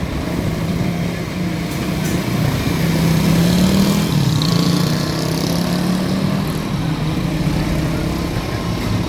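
Scania G420 truck's diesel engine running, getting louder and slightly higher in pitch about three to four seconds in, then easing back to a steady run.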